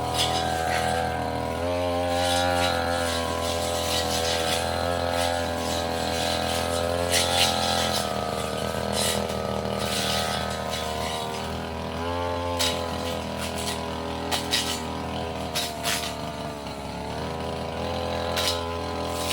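Tasco brush cutter engine running steadily at working speed, its pitch dipping and recovering now and then, with sharp clicks and cracks as the Stamvick blade strikes undergrowth.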